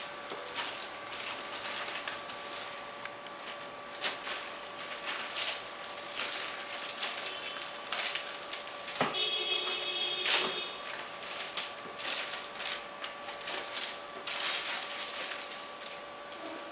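Rustling, crinkling and clicking of an EPO foam RC glider wing and its packaging being handled, with a brief squeak about nine seconds in and a faint steady hum underneath.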